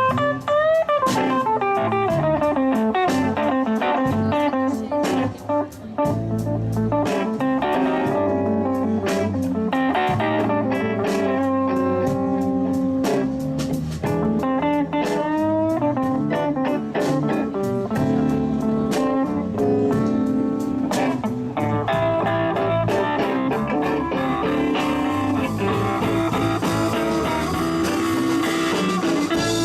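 Live blues band playing an instrumental break, an electric guitar taking the lead with bending notes over bass guitar.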